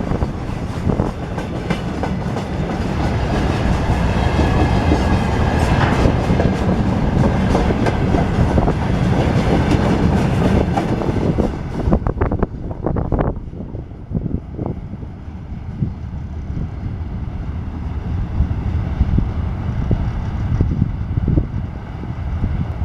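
Train rolling past, its wheels clattering over the rail joints. About twelve seconds in, the sound changes abruptly to a duller, lower rumble with a few knocks.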